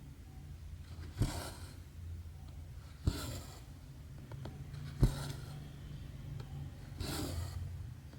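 Hand cross-stitching on 11-count fabric: a needle punches through the cloth with a sharp tick and the thread is drawn through with a short swish. It happens about every two seconds, three ticks in all, with a last swish near the end.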